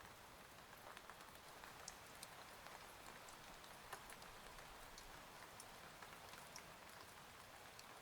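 Faint steady rain, a soft even hiss with many scattered individual drops ticking throughout.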